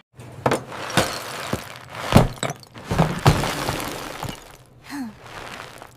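A crash of breaking glass: a run of sharp smashes and clattering, loudest about two and three seconds in, dying down toward the end.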